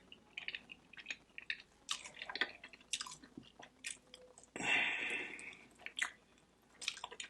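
Close-miked chewing of barbecue ribs: a run of short, wet mouth smacks and clicks. About four and a half seconds in there is one longer hiss-like sound lasting about a second.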